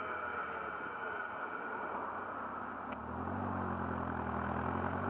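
GBS Zero open-top kit car's engine heard from the open cockpit over steady wind and road noise. About three seconds in, the engine note picks up and rises steadily as the car accelerates.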